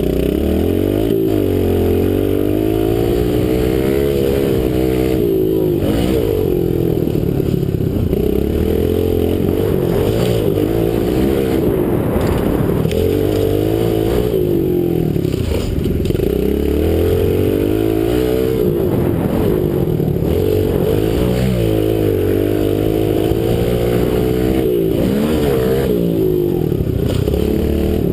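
Kawasaki KLX110 pit bike's small single-cylinder four-stroke engine being ridden hard. The pitch climbs under throttle and drops back again and again, every few seconds, as the rider accelerates, shifts and backs off.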